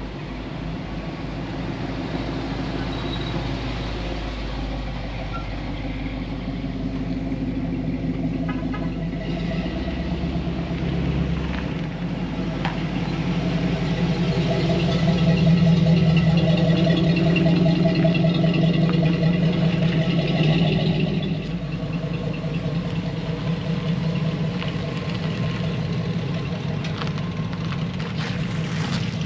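Truck engine running steadily, swelling louder for several seconds past the middle, then easing back.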